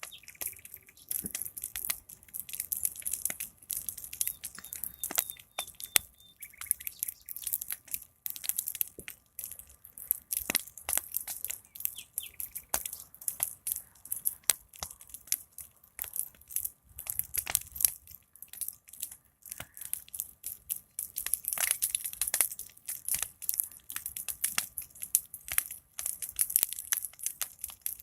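Big fire crackling steadily with dense sharp pops and snaps. Faint bird chirps come in now and then, most clearly a short chirping run about five seconds in.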